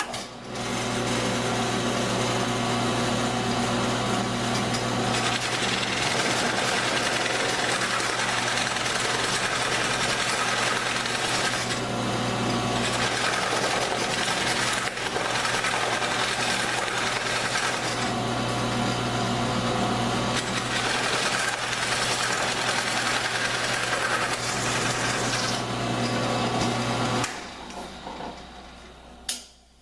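Drill press running while a large bit bores a hole through a wooden drawer front, the steady motor hum under cutting noise that rises and eases a few times as the bit is fed in. The motor is switched off and runs down about 27 seconds in, with a short click near the end.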